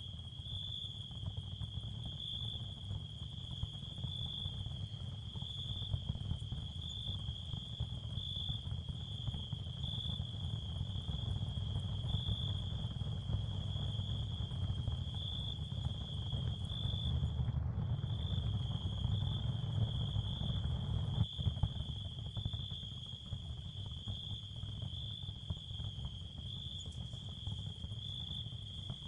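Ambient therapy sound field for tinnitus masking: a steady, high, faintly pulsing cricket-like chirring over a low rumble. The high chirring drops out for a moment about two-thirds of the way through.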